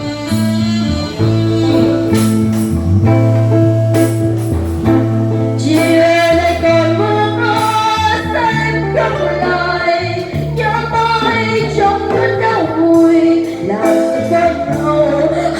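Live guitar and saxophone music, a slow ballad: guitar accompaniment over steady bass notes, with a held melody line coming in about five seconds in.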